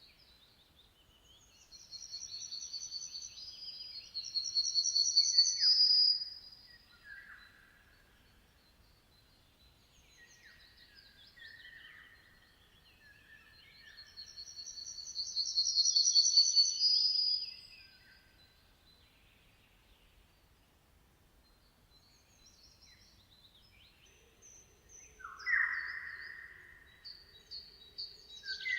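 Songbirds singing: two loud, high trilled song phrases about twelve seconds apart, with softer chirps between them and a lower, louder call near the end.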